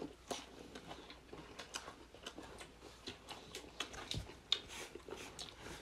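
Faint mouth sounds of eating garlic-butter stir-fried sea snails: irregular small clicks and smacks of chewing, one a little louder about four and a half seconds in.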